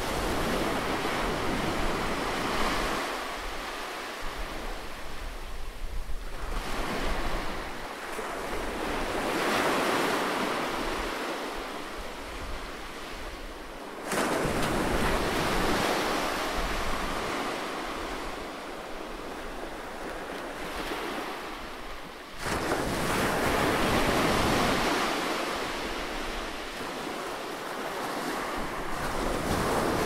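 Ocean surf breaking and washing up the shore, the noise of each wave swelling and fading every few seconds, with a couple of sudden surges in loudness.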